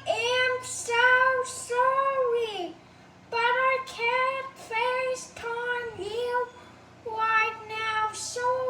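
A child singing a string of short, high notes, pausing briefly about three seconds in and again around six and a half seconds in.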